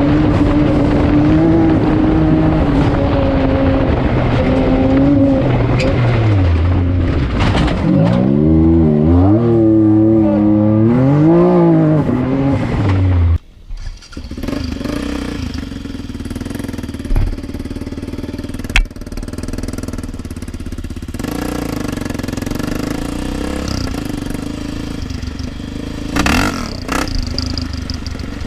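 Off-road vehicle engine revving, its pitch climbing and dropping repeatedly. About halfway through the sound cuts off abruptly, and a quieter, steadier engine sound follows with a few sharp clicks.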